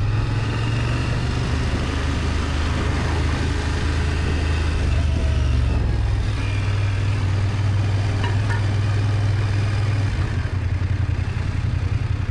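BMW F800GS parallel-twin engine running with a low, steady drone, turning into a slow, even pulsing beat about ten seconds in as the revs drop.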